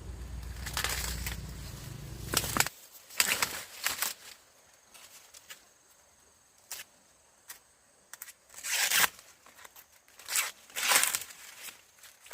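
Crisp rustling and tearing in several short, irregular bursts, as of dry corn leaves and husks being pulled and broken during the harvest. A steady low hum stops abruptly about two and a half seconds in.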